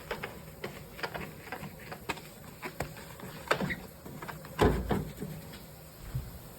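Irregular light knocks and clicks of things being handled, with one louder thump about two-thirds of the way through.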